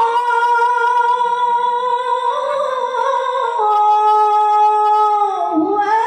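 A female Quran reciter holds a long, high note in melodic tilawah recitation. About three and a half seconds in it steps down to a slightly lower held pitch, and near the end it slides down.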